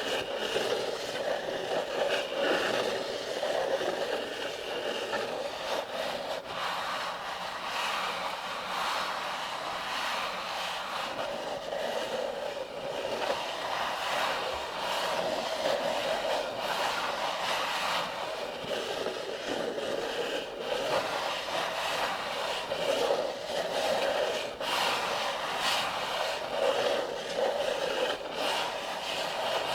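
Cartridges being loaded by hand into an AK-47 75-round drum magazine: steady metallic scraping and rubbing, with an occasional sharp click.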